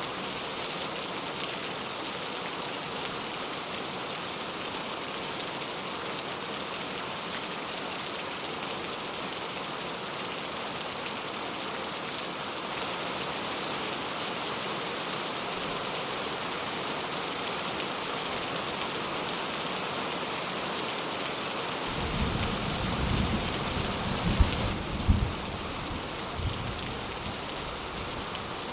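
Steady rain falling in a dense, even patter. About three-quarters of the way through, a low rumble of thunder rises for a few seconds, with a couple of sharp peaks.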